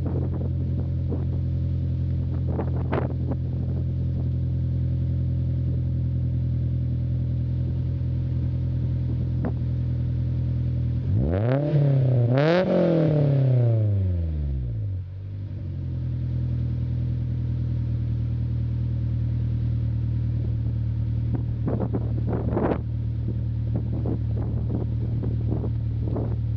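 2005 Honda S2000's 2.2-litre four-cylinder idling steadily through an Invidia cat-back exhaust, revved twice in quick succession partway through, then dropping back to idle.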